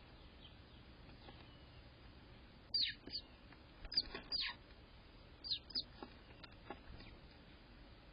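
A bird calling with short chirps that slide steeply down in pitch, mostly in close pairs, starting about three seconds in.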